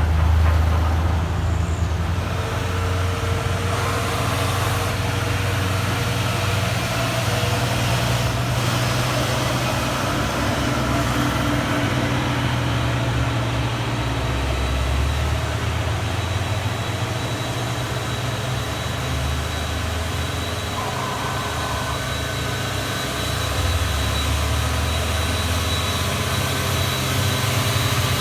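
Diesel engines of heavy trailer trucks running steadily as they climb a steep hill. There is a continuous low drone and a thin, steady high whine above it.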